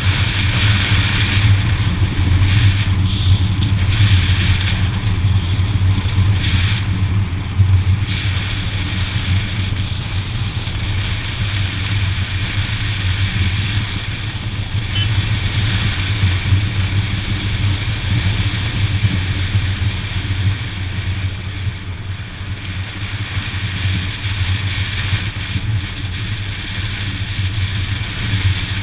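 Motorcycle engine running steadily on the move, with wind rush on the camera's microphone.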